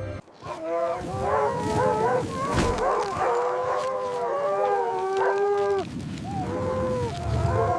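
A pack of wolves howling together: several long, overlapping howls at different pitches. They break off just before six seconds in and a few start up again near the end.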